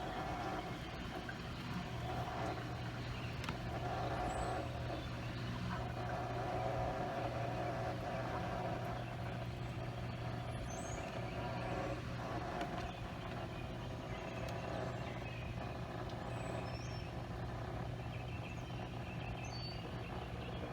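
Portable camp washing machine humming steadily while set to drain, its water running out through the drain hose, with a few short bird chirps.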